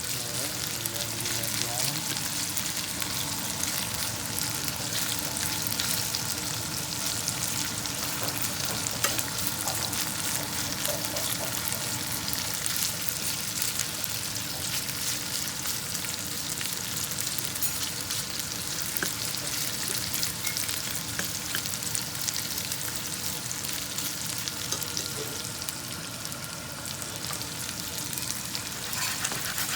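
Thin slices of chicken frying in olive oil in a pan: a steady sizzle with many small crackling pops.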